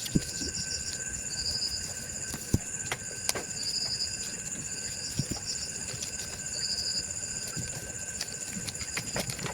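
Steady high-pitched insect chirping, with short trills repeating every second or two and scattered light clicks and taps.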